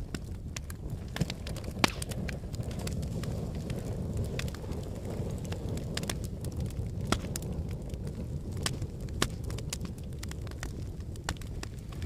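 Wood fire burning in a fireplace: a steady low rumble of flames, broken by irregular sharp crackles and pops from the logs.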